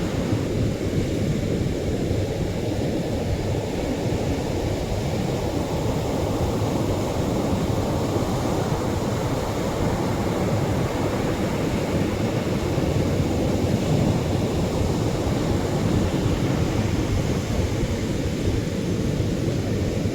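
Atlantic surf breaking on a beach: heavier waves making a continuous low rush with no separate crashes, swelling a little about two-thirds of the way through.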